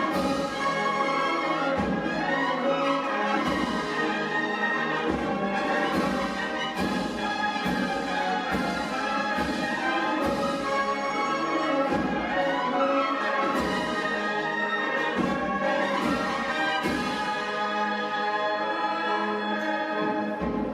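Processional band of cornets, trumpets and other brass playing a Holy Week march, the melody held over regular drum strikes.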